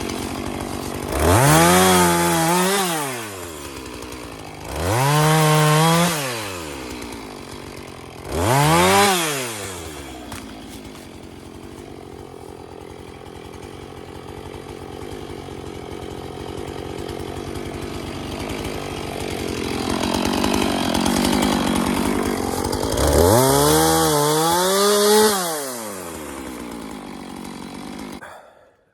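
Chainsaw engine revved up three times in quick succession, each rev followed by a drop back to idle, then run at speed for a few seconds later on, likely cutting wood. The engine cuts off abruptly near the end.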